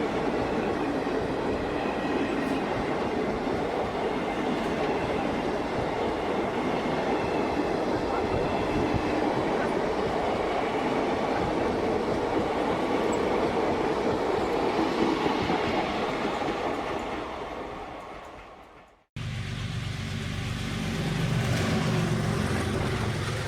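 Passenger train coach running on the line: a steady rumble of wheels on rails with some clickety-clack, fading out about three-quarters of the way through. It then cuts abruptly to a lower rumble with wind noise.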